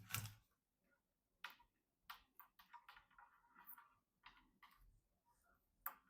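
Faint scattered clicks and light taps, with a short run of small rattles in the middle: PC parts being handled during assembly.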